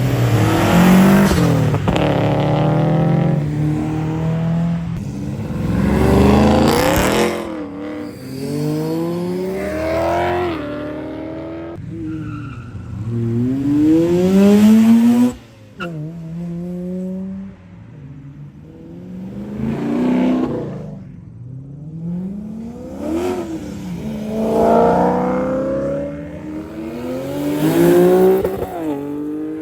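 Car engines accelerating hard, the engine note climbing and dropping again and again as they rev up through the gears. The sound cuts off abruptly about halfway through, and more hard acceleration follows.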